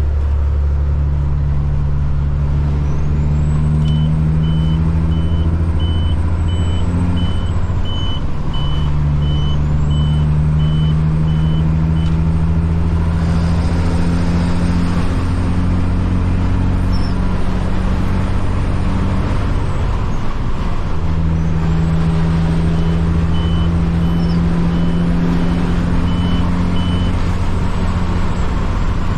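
Caterpillar C-15 diesel in a Kenworth truck running at freeway speed, heard from inside the cab as a steady deep drone that dips and picks up again about eight seconds in and again about twenty seconds in. A high beep repeats about twice a second for several seconds, twice over.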